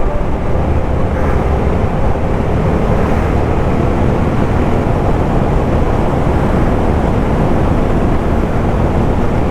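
Steady wind rush on the microphone and road noise while riding a Suzuki motorcycle at speed on a gravel highway, with the engine running underneath.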